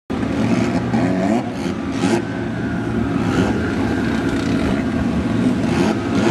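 Big-turbo VW MKIV GTI engine revving and accelerating at a drag strip. Its pitch rises over the first couple of seconds, broken by a few sharp breaks, then it runs on loud and steady.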